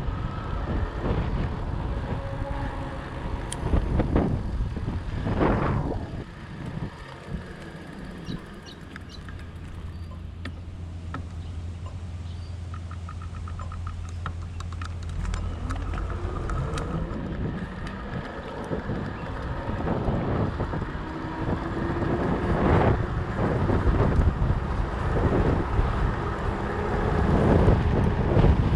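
Fat bike on 4.4-inch Jumbo Jim tyres being ridden: wind buffeting the microphone over tyre rumble. It eases to a steadier low hum for several seconds in the middle, with a brief run of quick ticks, then grows rough and gusty again near the end.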